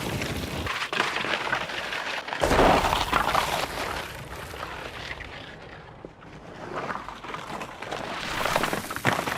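Skis scraping and crunching over bare rocky ground in uneven surges, loudest about three seconds in.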